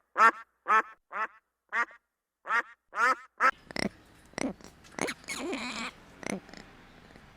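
A duck quacking in a rapid series, about two short quacks a second, with a brief pause in the middle. About three and a half seconds in the sound changes to a noisier background with scattered, different animal calls.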